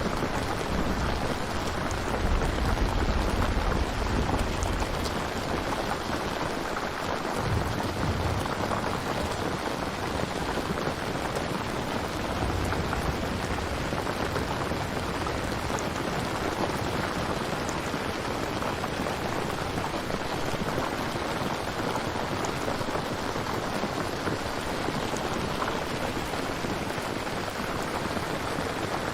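Steady heavy rain falling, with a low thunder rumble in the first few seconds that dies away, and another brief rumble a few seconds later.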